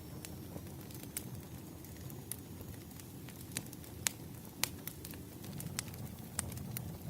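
Wood fire crackling: irregular sharp pops and snaps, a few of them louder, over a low steady background rumble.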